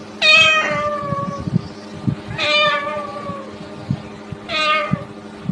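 Three drawn-out meows, about two seconds apart, each sliding slightly down in pitch.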